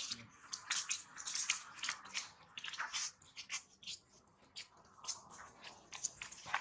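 A monkey crunching and chewing food, a rapid irregular crackle of small crunches.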